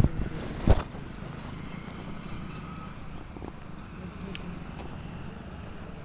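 Two sharp knocks in the first second, then a steady low rumble of road traffic.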